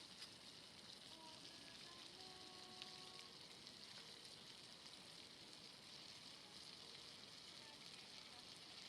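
Faint, steady sizzling of food frying in a pan over a campfire, with a few small clicks.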